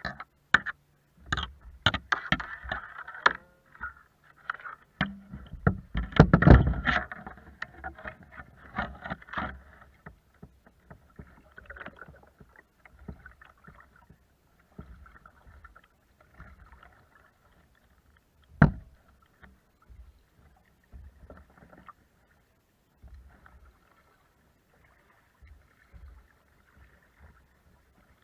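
Sounds of a kayak on the water: a run of knocks and splashing clatter against the hull, busiest in the first ten seconds, then one sharp knock about two-thirds of the way through, with faint water noise between.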